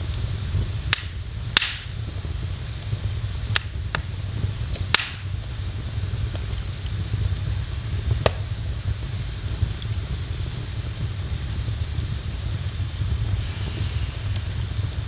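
Wood fire in a fireplace crackling, with about six sharp pops in the first half over a steady low rumble and hiss.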